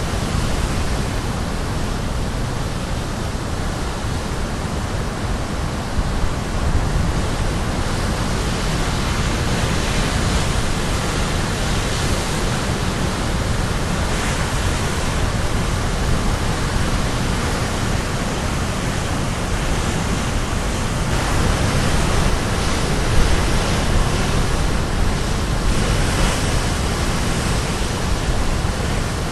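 Caribbean Sea surf breaking on the shore: a continuous rush of crashing waves that swells a little every few seconds.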